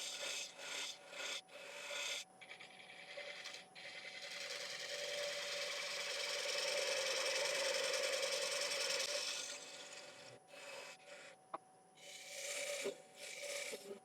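3/8 spindle gouge cutting damson wood on a lathe spinning at about 550 rpm, taking off the tenon from a bowl's underside: short scraping cuts, one long continuous cut from about two to nine seconds in, then short light passes again, over a faint steady whine.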